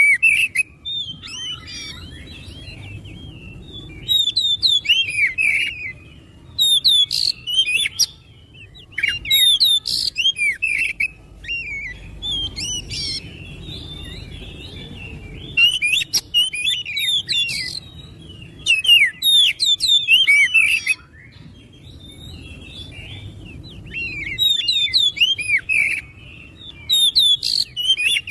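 Oriental magpie-robin (kacer) song: bouts of rapid, varied whistled phrases with sweeping notes, broken by pauses of a second or more. A low steady background hiss runs under it.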